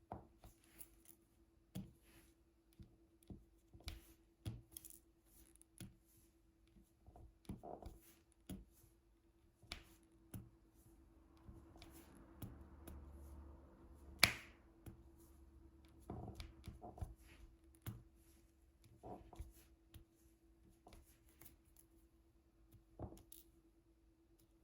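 Scattered soft clicks and taps of a diamond painting drill pen picking up and pressing resin drills onto the canvas, one sharper click about 14 seconds in, over a faint steady hum.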